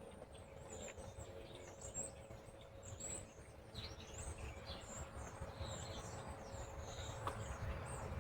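Small birds chirping, many short high calls scattered throughout, over a low rumbling background noise.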